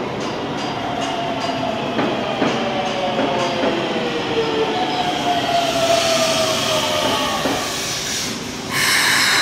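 Keikyu 1500-series electric train pulling in and braking, its motor whine falling slowly in pitch over wheel and rail noise with a few sharp clicks. Near the end a sudden loud air hiss, the air brakes as the train comes to a stop.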